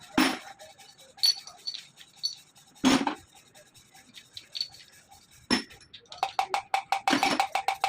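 Metal clinks and knocks from hand tools working on a Deutz engine cylinder head: a few single strikes, then a quick run of taps, about seven a second, near the end.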